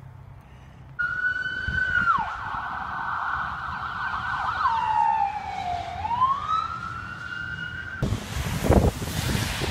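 Emergency vehicle siren wailing, holding a high tone with sudden drops to a lower pitch and slow glides back up; it starts about a second in and cuts off abruptly near the end. Wind buffeting the microphone takes over after the cut.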